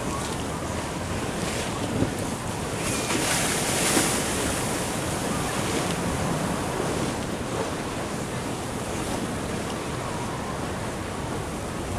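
Ocean surf washing in steadily, with wind buffeting the microphone; a louder wash about three to four seconds in.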